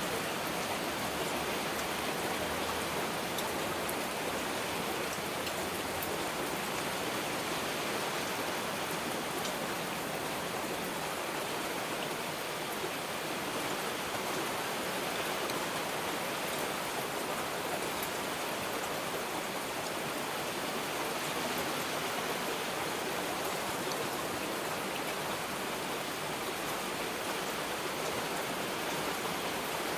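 Heavy rain falling steadily: a dense, even hiss of drops with an occasional faint single drop standing out.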